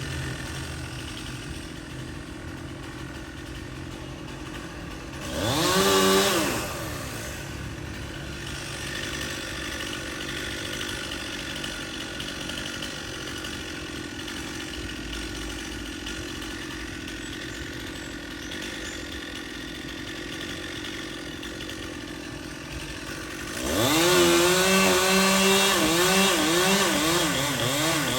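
Stihl two-stroke chainsaw idling, revved briefly once about six seconds in. Near the end it is throttled up and held at high revs, its pitch repeatedly dipping and recovering.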